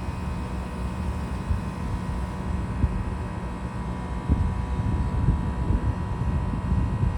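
A CAF Urbos 3 streetcar running on its rails: a steady low rumble with a few knocks and a faint steady whine.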